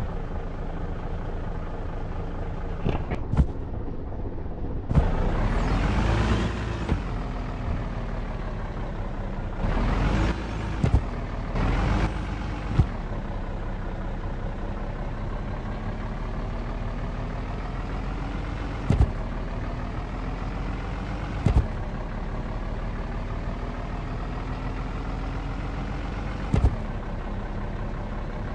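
Truck engine running on the move, its pitch rising and falling with the speed and slowly climbing through the second half. Several sharp knocks or rattles and a few short surges of louder noise break in.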